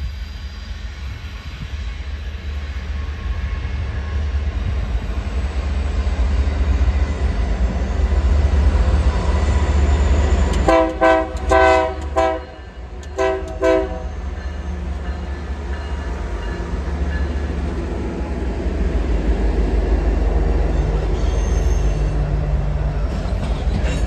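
BNSF diesel freight train passing with a steady low rumble; about ten seconds in, the locomotive's horn sounds in several short blasts.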